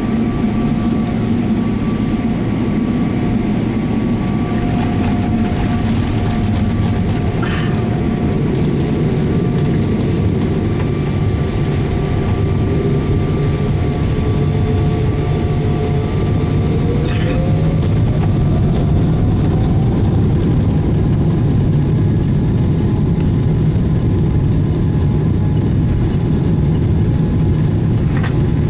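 Jet engines of a Boeing 777-300ER heard inside the cabin: a steady engine hum and rumble with a whine that rises in pitch over a few seconds about two-thirds of the way through, as the engines spool up, the rumble growing stronger after it. Two short knocks sound, one about a quarter of the way in and one just before the rise.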